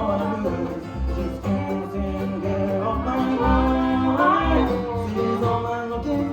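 Live bluegrass band playing a blues number: a lead melody slides up and down in pitch over a pulsing bass line.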